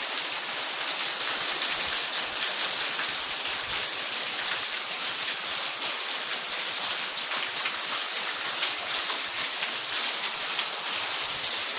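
Heavy hurricane rain pouring steadily: a dense, even hiss of falling water with countless small drop impacts.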